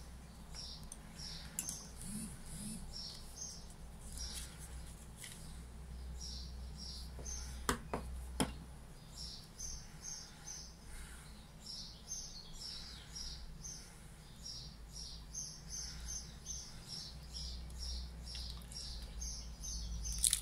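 A small bird chirping over and over in short high calls, coming in runs of several a second, over a low steady hum. A couple of sharp small clicks come about eight seconds in, from small metal lighter parts being handled.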